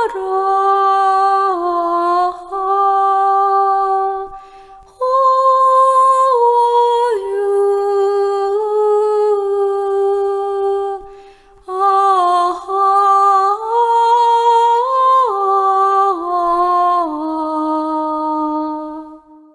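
A single unaccompanied voice humming a slow, wordless melody of held notes that step up and down in pitch. It pauses twice, about four seconds in and about eleven seconds in, and fades at the end. This is a free, self-made vocal melody used as sound-healing vocalizing.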